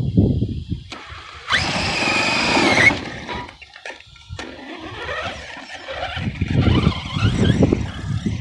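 Redcat Shredder 6S RC monster truck's brushless electric motor whining in one burst of about a second and a half, the pitch rising a little before it cuts off. Rough low noise comes before the whine and again near the end.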